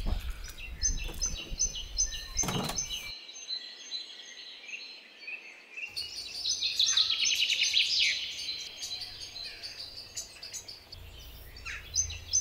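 Garden songbirds singing: a high chirp repeated several times a second, then a busier run of song about six seconds in, with the repeated chirping coming back near the end.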